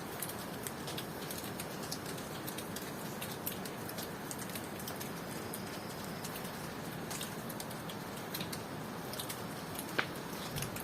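Steady tropical rain falling, with many small drops ticking and dripping on surfaces, and one sharper drip about ten seconds in.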